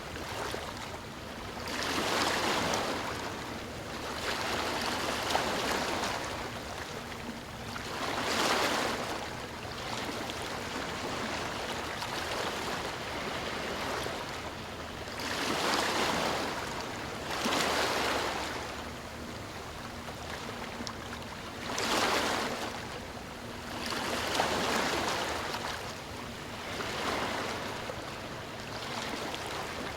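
Ocean waves washing ashore: a hiss of surf that swells and falls away again every three or four seconds.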